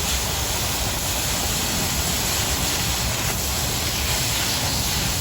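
Oxy-fuel cutting torch cutting through quarter-inch steel plate, a steady hissing rush that runs unbroken.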